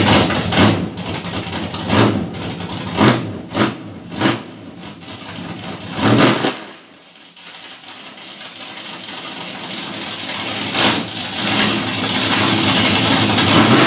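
Pontiac Firebird's engine running and revved in several quick blips. After about six and a half seconds it falls back, then builds in one long, steady rise.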